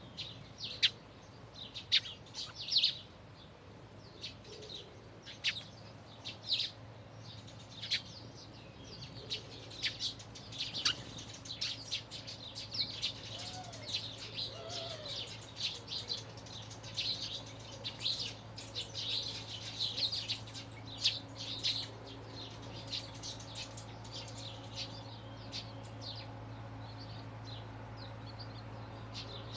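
Birds singing and chirping, a steady stream of short, high calls. A faint steady low hum runs underneath.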